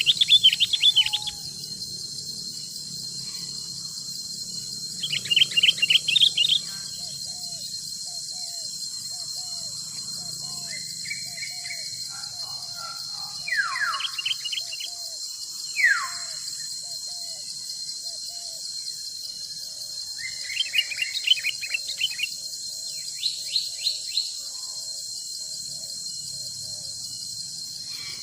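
Forest ambience: a steady high insect drone throughout, with birds calling in short bubbly bursts about six times, including two quick falling whistles around the middle. A faint run of small repeated notes sits beneath.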